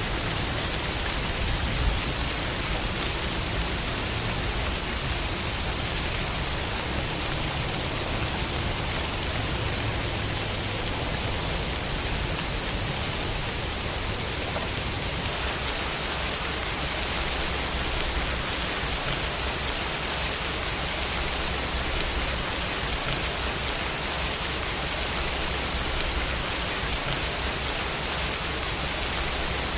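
Steady rain falling, an even hiss of many drops with no distinct splashes.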